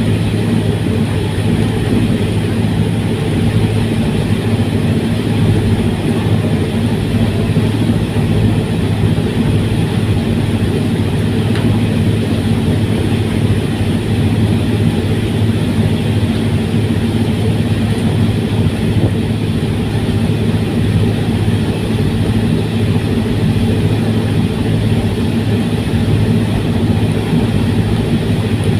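Fast passenger ferry's engines running at steady cruising speed, a loud low drone that does not change.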